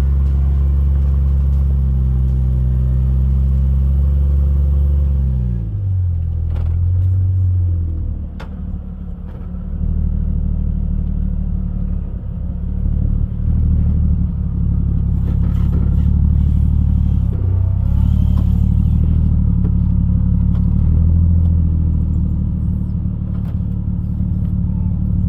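Jeep Cherokee XJ's engine running at low speed while rock crawling; its pitch drops about five seconds in, then rises and falls with the throttle. A few sharp knocks sound over it.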